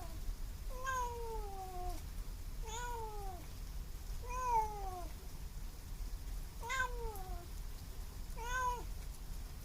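Kitten meowing repeatedly: five separate meows about every one and a half to two seconds, each one falling in pitch.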